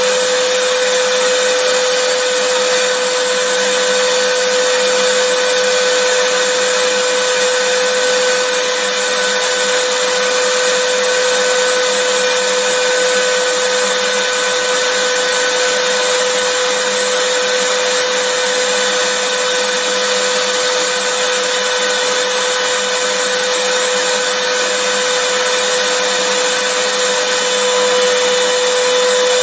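Vacuum cleaner running steadily, a constant loud whoosh of airflow with a high motor whine held at one pitch.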